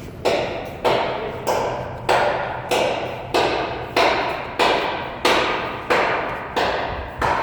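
About a dozen heavy knocks at an even pace, a little over one and a half per second, each fading before the next, like steady hammer blows.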